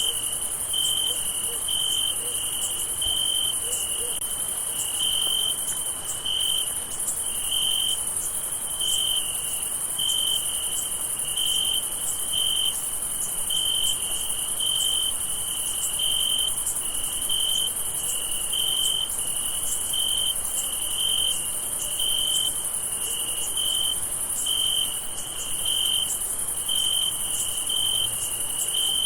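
Crickets chirping at night. A short, regular chirp repeats about once a second over a steady, high-pitched chorus of many more insects.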